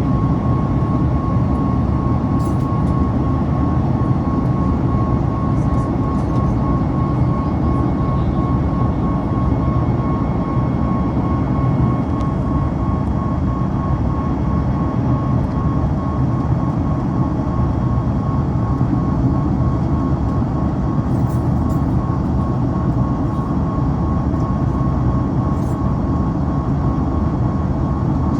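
Boeing 737 MAX cabin noise, the steady rumble of its CFM LEAP-1B engines and airflow heard from a passenger seat. A constant high whine runs through it, with a few faint clicks.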